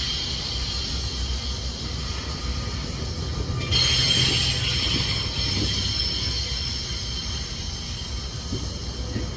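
A train rolling through the station: a steady low rumble of wheels on rail under a high-pitched metallic squeal and hiss that swells sharply about four seconds in, with a few wheel knocks near the end.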